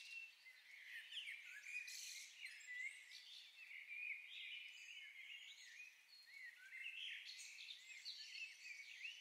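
Faint chirping of small birds: many short, quick calls that bend up and down in pitch and overlap one another.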